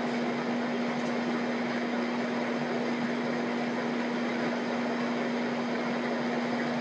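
A steady machine hum with one held low tone under an even hiss, unchanging throughout.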